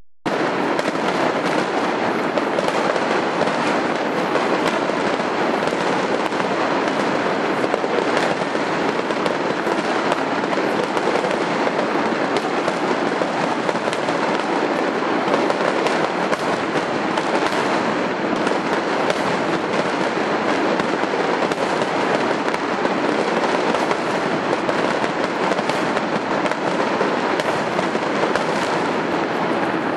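Aerial fireworks barrage: a dense, unbroken wall of many shells bursting and crackling at once, at a steady loud level with no pause. It starts abruptly just after the beginning.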